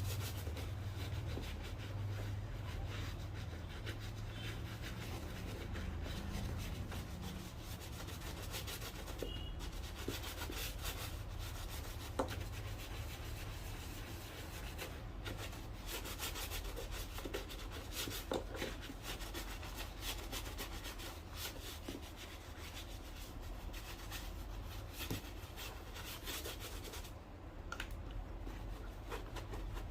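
Continuous rubbing strokes on a shoe as it is worked over during cleaning and polishing, with a few light knocks and a steady low hum underneath.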